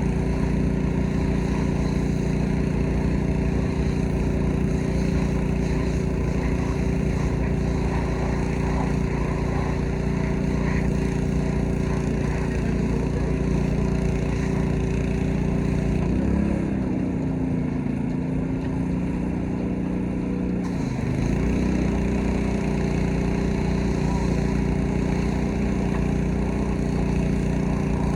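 Gasoline engine of a pressure washer running steadily. Its pitch sags about halfway through and climbs back up some five seconds later.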